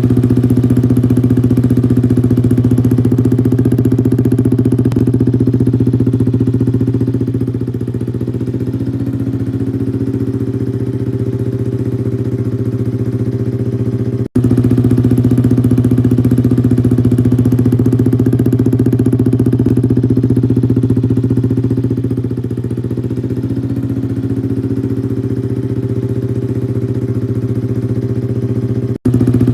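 Yamaha R15 V3's single-cylinder four-stroke engine idling steadily through an aftermarket SC Project exhaust, with a low, even note. Its level dips slightly for a few seconds, and the sound cuts out for an instant about halfway through, where the same stretch starts over.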